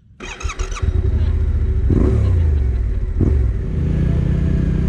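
Motorcycle engine pulling away and accelerating, with the revs dropping at gear changes about two and three seconds in.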